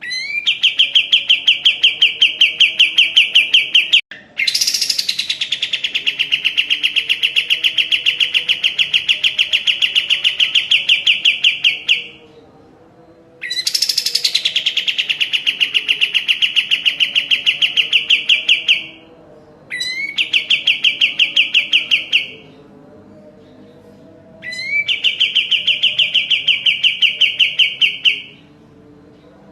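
White-shouldered triller (kapas tembak) singing five long, fast trills of rapidly repeated notes, separated by short pauses. Several trills open with a brief rising sweep.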